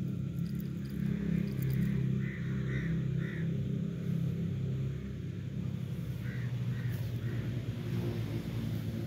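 A steady low rumble throughout, with a bird calling in two sets of three short calls about half a second apart, the first set a little over two seconds in and the second about six seconds in.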